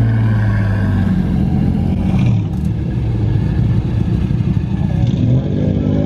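Car engine running at low revs, then revving with a rise in pitch about five seconds in.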